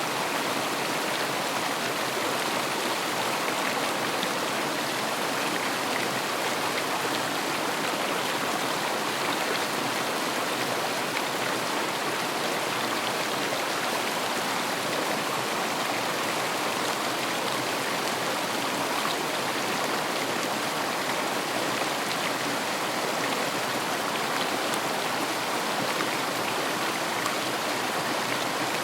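A river flowing steadily, its water rushing and splashing in an even, unbroken wash of sound.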